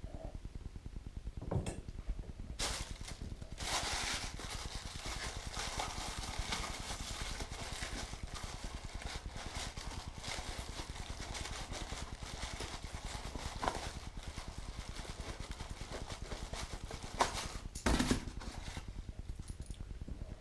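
Packaging rustling and crinkling for about fifteen seconds as a part of a die-cast model crane is unwrapped, with a few sharp knocks as the pieces are handled.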